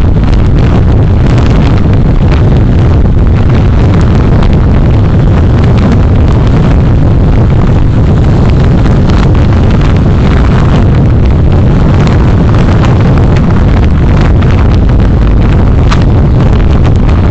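Steady, loud road and engine noise from a moving vehicle in city traffic, heard through a dashcam microphone, with low rumble and wind buffeting on the microphone.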